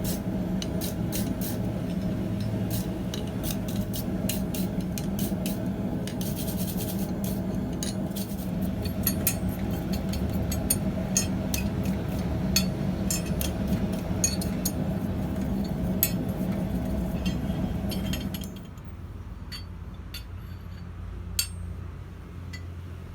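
Light metallic clinks and taps of steel tongs being handled and worked, over a steady machine hum that cuts off suddenly about eighteen seconds in, leaving only scattered clinks.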